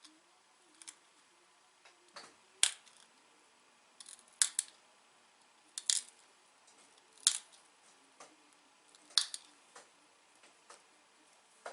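Sharp stone clicks, about one every second or two and some doubled, as small flakes snap off the edge of a dacite bird point during pressure-flaking.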